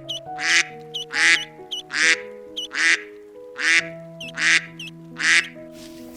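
Domestic duck quacking, about seven loud raspy quacks evenly spaced, roughly one every second, over background music.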